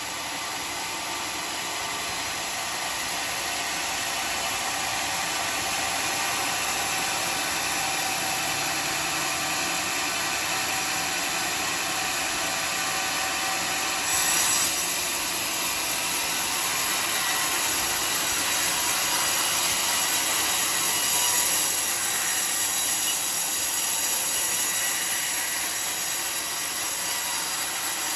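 Band sawmill running steadily as its blade saws through a teak log. The sound grows sharper and a little louder about halfway through.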